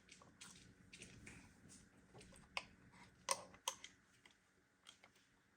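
Light, scattered clicks and taps of computer parts being handled during assembly, with a few sharper clicks near the middle.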